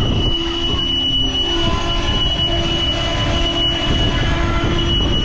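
CPKC Holiday Train's coaches rolling past on the rails, with a steady high-pitched wheel squeal over a low rumble.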